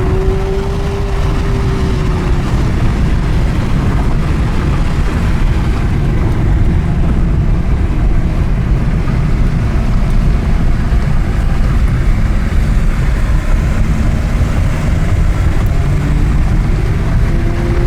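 Porsche Carrera GT's 5.7-litre V10 with FVD exhaust driving on the road under heavy low road and wind rumble. Its engine note rises briefly at the start and again near the end.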